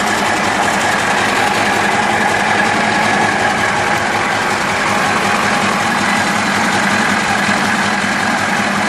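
Caterpillar 3408E V8 diesel engine running at a steady speed on test.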